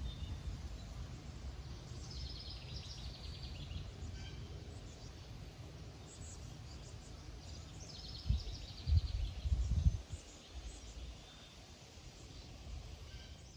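A bird sings a quick trill of rapidly repeated high notes twice, about two and six seconds in. Under it runs a low rumble of wind on the microphone, which gusts for a couple of seconds past the middle.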